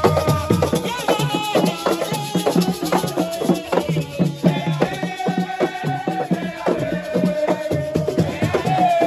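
Senegalese assiko music: drums struck in a fast, dense rhythm with shaken rattles, and a voice singing long, wavering notes over the percussion.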